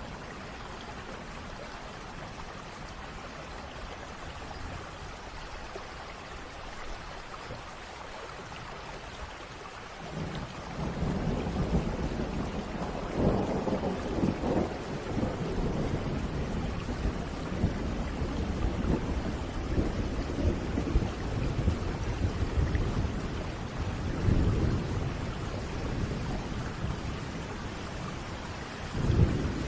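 Steady rain, and about ten seconds in a long roll of thunder rumbles in and keeps rolling, swelling louder several times, with a sharp peak near the end.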